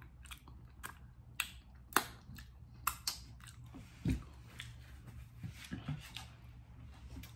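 Close-miked chewing with wet lip smacks and mouth clicks, an irregular string of short sharp clicks, the strongest about two and three seconds in, and a low thump about four seconds in. A steady low hum runs underneath.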